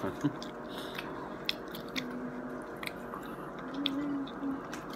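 Close-up eating sounds: a homemade burrito being bitten into and chewed, with scattered wet mouth clicks and a few short low hums.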